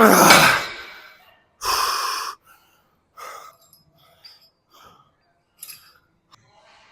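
A person's hard, forceful exhale, then a second loud breath about two seconds in, followed by several short, quieter breaths: heavy breathing from workout exertion.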